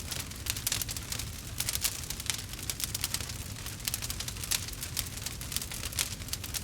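Campfire burning, with dense, irregular crackles and pops over a steady low rumble.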